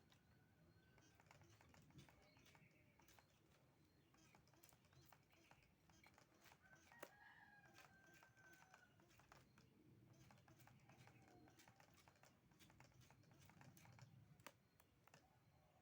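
Near silence with faint scattered light clicks and one faint, drawn-out bird call about seven seconds in.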